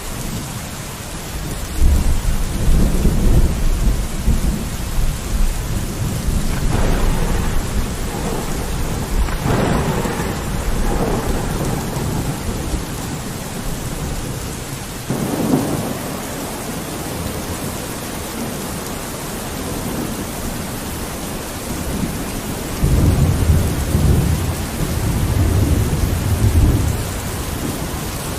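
Steady rain with thunder rumbling over it several times: a long rumble about two seconds in, more rolls in the middle, and another long rumble near the end.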